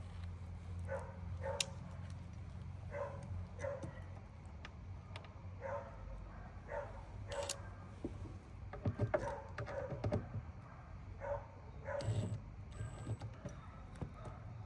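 A dog barking repeatedly, short barks about once a second, with a few sharp clicks among them.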